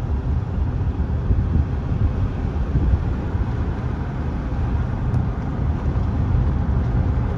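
A car driving at low speed: a steady low rumble of engine and tyre noise, heard from inside the cabin.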